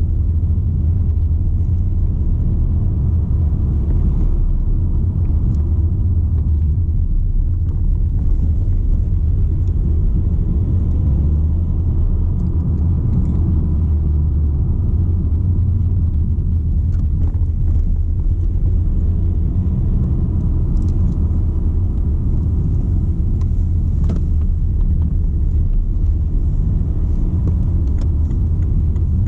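BMW 120d with its four-cylinder diesel, driving along at a steady pace: a low, even rumble of engine and road noise.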